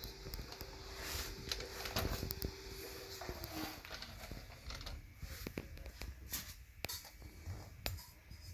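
Light handling noise: scattered small clicks and rustles, with a faint steady hum that fades out about three and a half seconds in.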